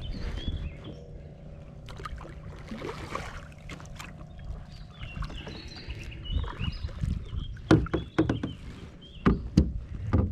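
Knocking and handling noise on a plastic fishing kayak, with sharp clicks and several loud thumps in the last few seconds. Birds chirp in the background.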